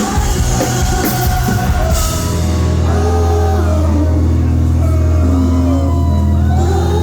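Live rock band playing loud, as heard through a phone's microphone. Drums and cymbals crash for about the first two seconds, then drop out, leaving a held low bass note under a melody.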